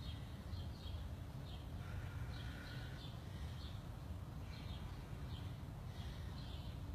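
Birds chirping in the background, short high chirps every half second or so, with one longer held note about two seconds in. A steady low rumble runs underneath.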